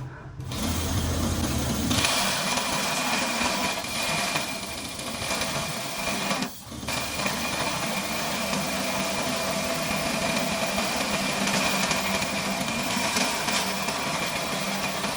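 Electric-motor belt grinder running steadily, with a constant whine over a rushing belt noise; the sound dips out briefly about six and a half seconds in and then resumes.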